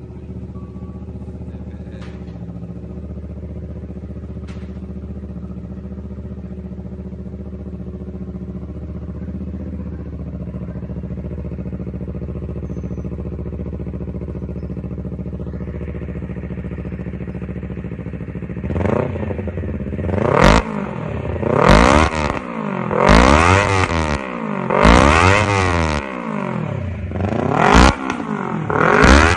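Honda CBR250 motorcycle engine breathing through an aftermarket exhaust, idling steadily, then revved in a series of quick throttle blips for the last ten seconds or so, each rising and dropping back to idle.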